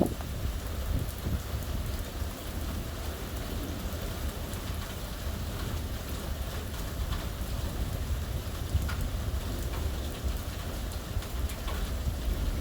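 Rain falling steadily during a thunderstorm, with scattered drop ticks over a steady low rumble.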